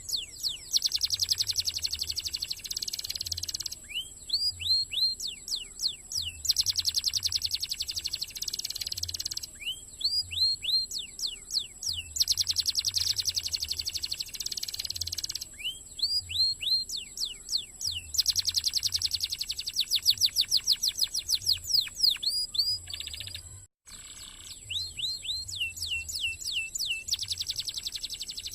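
Domestic canary singing: over and over, a few quick sweeping whistled notes run into a fast, rapid trill, a new phrase every few seconds. The sound cuts out for an instant about 24 seconds in.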